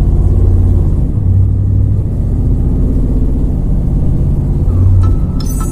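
Restomod 1970 Dodge Charger's 572 cubic inch Hemi V8 running with a low, steady exhaust note through side-exit exhausts, swelling briefly about a second in and again near the end.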